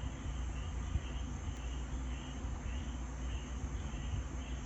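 Crickets chirping faintly in a regular pulse, about two chirps a second, over a low steady hum.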